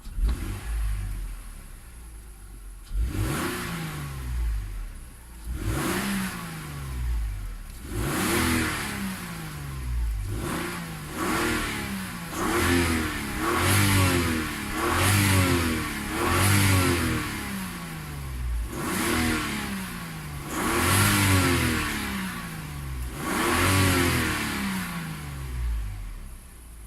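Engine being revved in repeated throttle blips, over a dozen times: each blip rises quickly in pitch and falls back to idle, with the engine idling between them.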